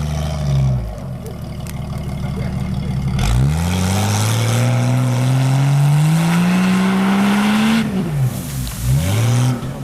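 An off-road 4x4's engine revving: a couple of short blips, then a long steady climb in revs lasting about four and a half seconds. The revs drop near the end, followed by more quick blips.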